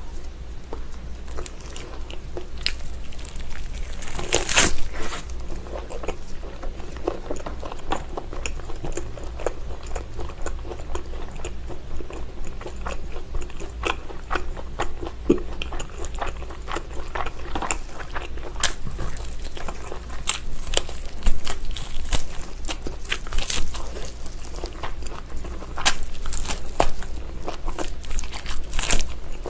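Biting, tearing and chewing of a whole braised pig's trotter (jokbal), with many sharp clicks and crackles throughout and a few louder bites.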